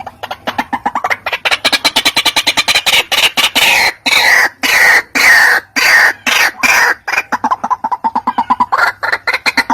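White-breasted waterhen call played as a bird-lure recording: a fast run of short harsh notes that gives way to a string of longer croaking notes, each falling in pitch, before the quick notes return near the end.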